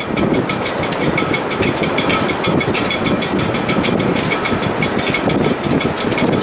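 Sailboat shrouds and rigging in a strong wind: a steady, gusting rush with a fast, even rattle and a faint high whistle in the wires.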